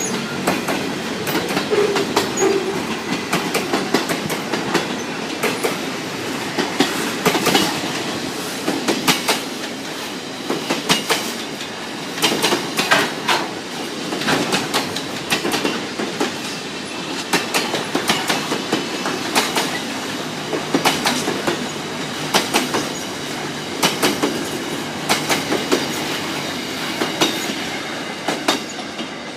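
Freight train wagons rolling past, their wheels clattering in clusters of sharp clicks over the rail joints above a steady rumble, with some faint wheel squeal. The noise eases off near the end as the tail of the train goes by.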